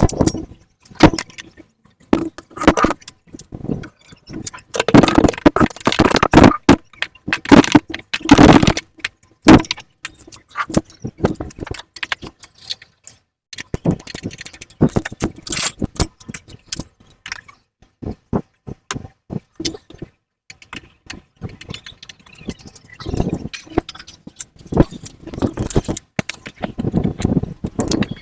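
Irregular metallic clinking, rattling and scraping of hand tools, bolts and exhaust parts as a twin exhaust pipe is bolted onto a Kawasaki KLX motorcycle. It comes as sharp clicks and short clattering bursts with brief pauses between them.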